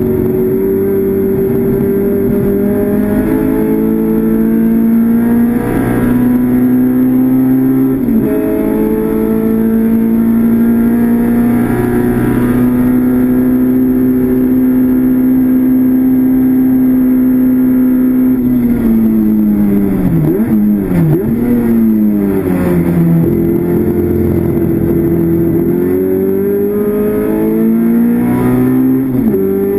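Classic Mini race car's four-cylinder A-series engine heard from inside the cabin under hard use. The revs climb with a gear change about eight seconds in and then hold steady for about ten seconds. Past the middle they drop in several quick steps, then climb again toward the end.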